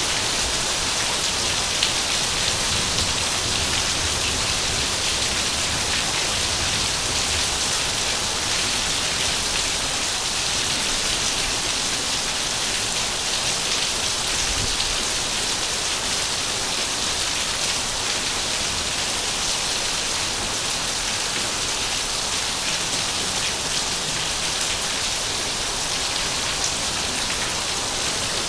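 Heavy rain falling steadily, a dense even hiss of drops striking surfaces with no let-up.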